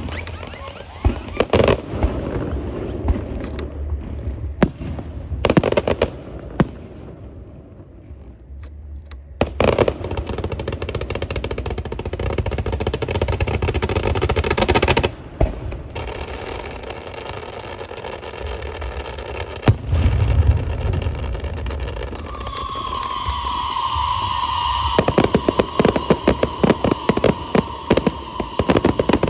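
Firecrackers and fireworks going off: scattered sharp bangs and crackling, breaking into a dense, rapid string of cracks about three-quarters of the way through. A held, slightly falling high tone joins in shortly before the dense string.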